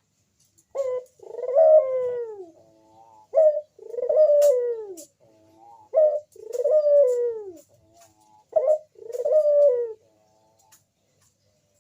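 A crossbred puter dove cooing loudly, as a dove does when it is in full voice. It gives four phrases about two and a half seconds apart, each a short note followed by a longer coo that slides down in pitch.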